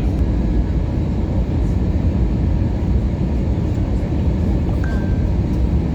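Steady engine and airflow noise heard inside the cabin of an Airbus A321neo airliner during its landing phase.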